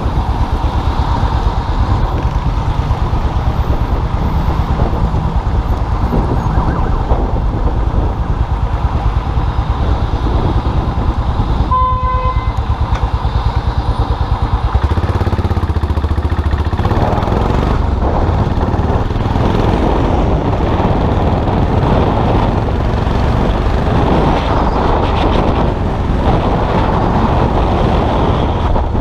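Custom motorcycle engine running under way, with road and wind noise. A short horn beep sounds about twelve seconds in, and the engine note changes about three seconds later.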